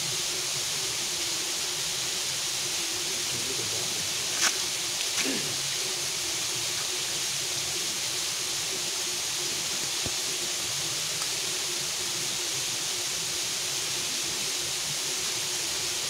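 Steady hissing outdoor background noise with a faint steady hum under it, and one sharp click about four and a half seconds in.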